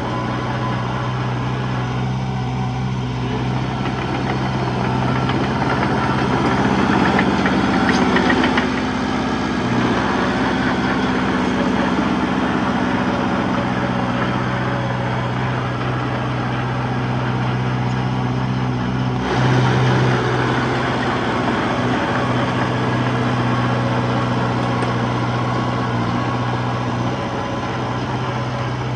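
Diesel engine of heavy earthmoving machinery running steadily. It gets louder for a moment twice, about a quarter of the way in and again about two-thirds through.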